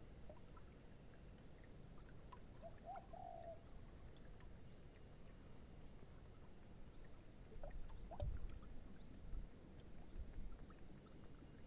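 Faint outdoor ambience: a steady high-pitched insect trill that breaks off briefly a few times, over an even low background noise, with a few faint short chirps.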